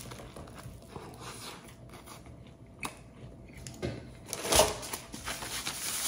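Chewing a mouthful of crusty baguette sandwich, with small crunches and the crinkle of its aluminium-foil wrapping. A brief louder noise comes about four and a half seconds in, and a paper napkin rustles against the mouth near the end.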